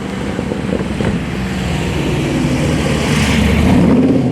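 A loud vehicle engine running and revving, growing steadily louder with its pitch rising near the end, where it is loudest.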